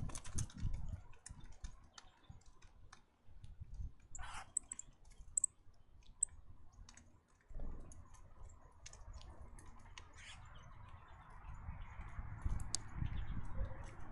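Scattered small clicks and taps of birds pecking and landing at a bird feeder, with a few brief high chirps about four to six seconds in. A faint steady hiss comes in about halfway through.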